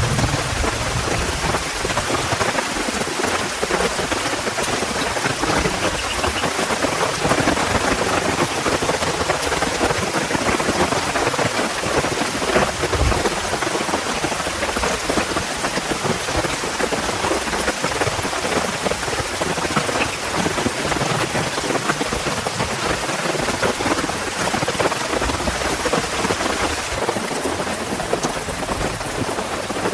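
Heavy rain falling steadily, a dense patter of drops hitting surfaces. There is a brief low thud about halfway through.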